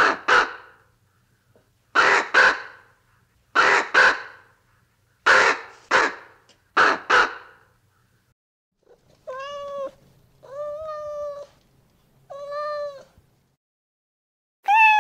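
Ravens cawing: harsh calls in quick pairs, repeated about every second and a half, for the first eight seconds. Then a domestic cat meows three times, each meow drawn out for about a second, and a fourth meow starts near the end.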